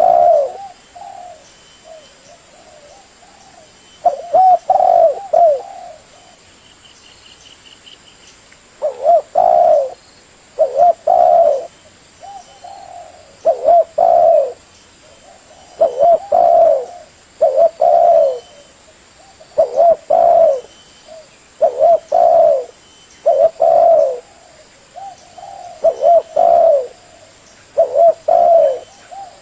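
Spotted dove cooing: repeated phrases of a few low coos each. After the first phrase there are gaps of a few seconds; from about a third of the way in, phrases come roughly every two seconds.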